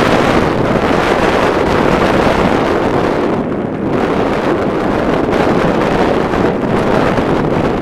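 Strong blizzard wind buffeting the camcorder microphone: a loud, dense rush of wind noise that eases briefly in the highs a few seconds in, then builds again.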